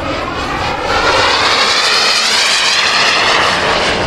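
Radio-controlled model aircraft's engine flying past, growing louder about a second in, its pitch wavering and sliding as it passes.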